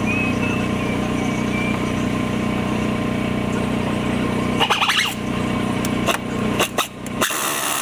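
Car engine idling steadily, then a run of sharp clicks and knocks about four and a half seconds in, with the hum dropping away and a short burst of hiss near the end.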